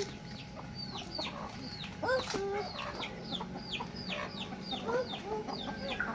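Free-range village chickens clucking, with a continuous run of short, high, falling peeps, several a second.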